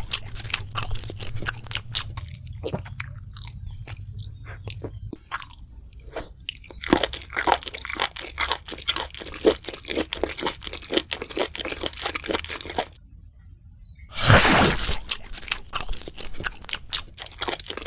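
Close-miked chewing of crispy fried food, with dense crackling crunches. After a short pause near the end comes a loud crunching bite.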